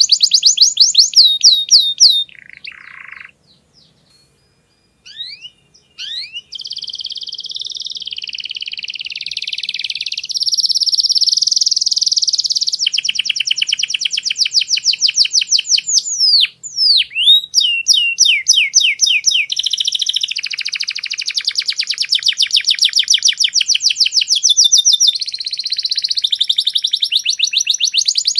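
Domestic canary singing: rapid repeated chirps and long rolling trills, high-pitched. The song breaks off briefly about three seconds in, then resumes and runs on almost without a break.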